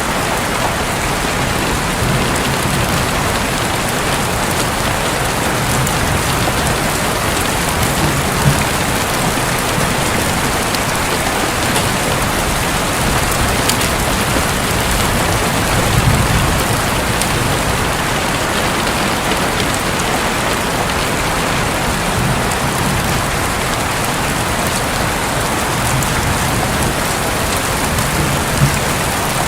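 Steady heavy rain drumming on a roof, with a faint low rumble of distant thunder swelling about halfway through.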